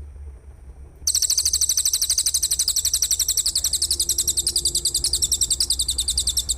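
Rapid, evenly pulsed high-pitched insect trill, about fifteen pulses a second, used as bird-training material. It starts abruptly about a second in and keeps going steadily.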